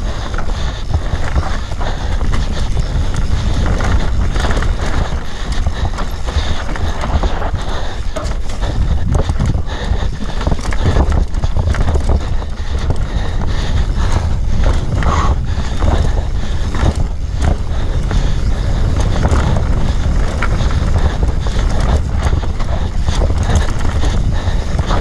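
Steady wind buffeting the microphone while riding fast along a rough trail, with frequent knocks and rattles from the bumpy ground.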